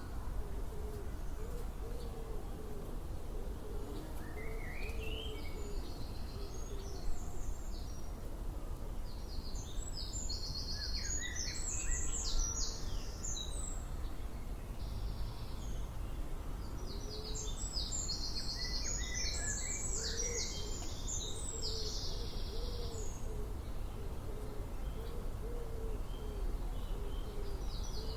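Birds calling: a low hooting note repeated in a steady series, about two a second, near the start and again in the second half, while songbirds sing short high phrases in two bursts in the middle. A steady low rumble runs underneath.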